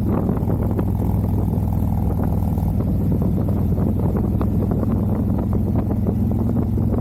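Harley-Davidson motorcycle engine running at a steady cruising pace, with wind buffeting the microphone.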